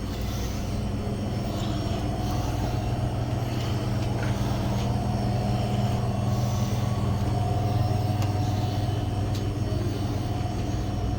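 Steady low mechanical hum with a fainter higher tone above it, from a running motor or engine.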